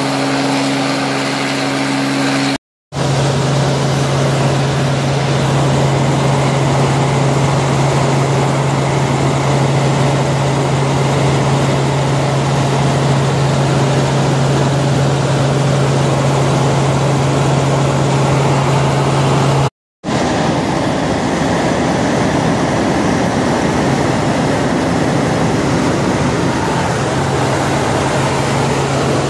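Helicopter in flight: a loud, steady rush of noise with a constant low hum under it, broken twice by a split-second dropout to silence.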